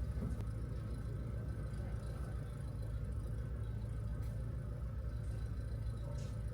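Steady low engine hum of a helicopter running on the ground, heard from inside its closed cabin.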